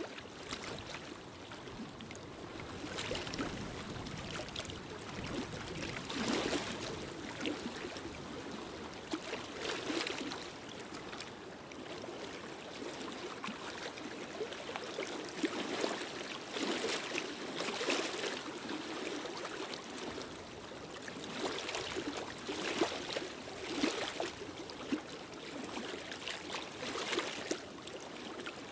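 Fireplace fire crackling: a steady rushing noise dotted with irregular pops and crackles that thicken and thin every few seconds.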